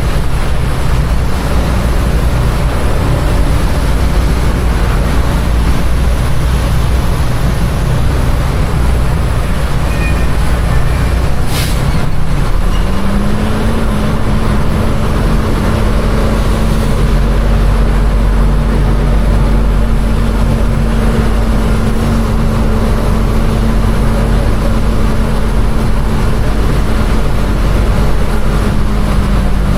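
Container truck's diesel engine running, a steady low drone heard from inside the cab. About twelve seconds in, the engine note steps up a little and holds. A single sharp click comes just before that.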